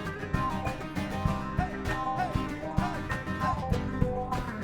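Live band playing an instrumental section with plucked strings, bass and hand percussion in a steady beat.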